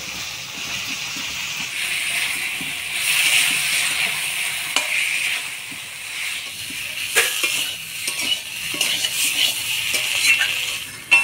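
Spiced masala paste and boiled potato halves sizzling in an oil-hot pan as they are stirred, with a spatula knocking and scraping against the pan several times.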